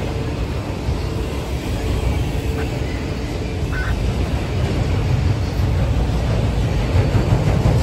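Freight train of autorack cars rolling past at close range: a steady low rumble of steel wheels on rail, swelling slightly toward the end.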